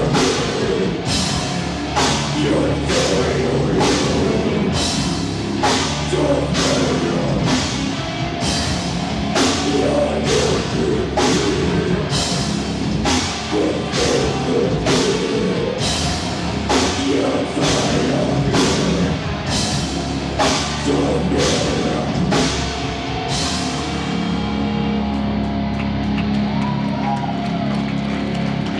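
Live heavy rock band playing loud, drums striking steadily about one and a half times a second under distorted instruments. About four seconds before the end the drum hits stop and a low held note rings on.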